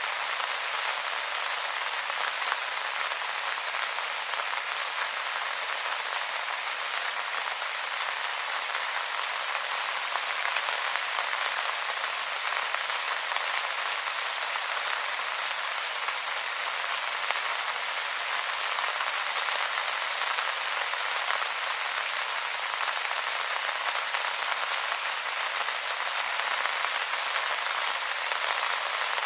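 Steady rain falling on wet leaves: an even hiss of many small pattering drops, with no change in strength.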